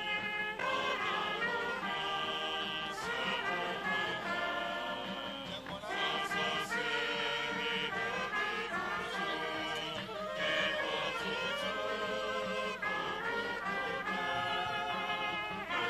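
Brass band music, trumpets and trombones playing held chords, with voices singing along.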